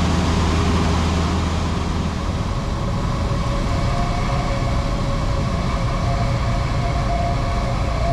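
Light propeller aircraft's engine droning steadily with a low, even hum under a broad rushing noise. A thin steady tone joins about halfway through.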